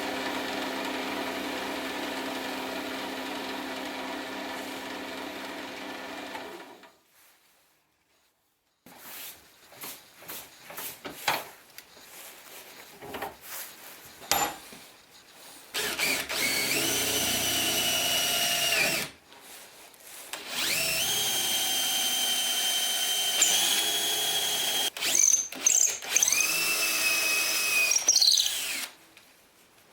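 An electric motor hums steadily, then winds down and stops about seven seconds in. After a pause and some scattered knocks and clicks, a power drill whines in two runs, each rising in pitch as it spins up; the second run is longer and shifts pitch several times.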